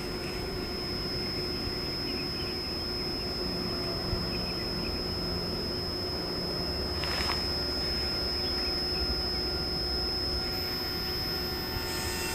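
Railway station ambience: steady background noise with a thin, constant high whine. Near the end it grows louder and faint steady tones come in as a train begins to approach.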